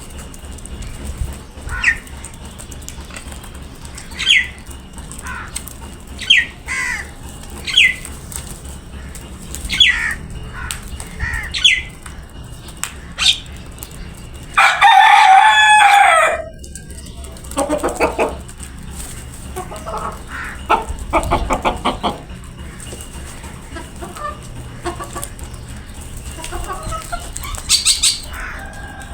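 A rooster crows once about halfway through, a drawn-out call of about a second and a half that is the loudest sound. Around it come short falling chirps, some rasping pulsed clucks and more high calls near the end.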